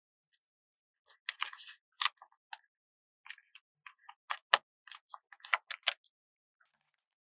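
Stickers being handled close to the microphone: short crisp crackles and clicks of sticker paper being peeled and pressed down. They come in irregular clusters that start about a second in and stop about six seconds in.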